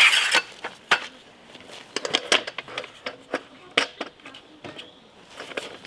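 Irregular clicks, knocks and rustles of camping gear being handled while a pup tent is pitched, the loudest a short burst of noise right at the start.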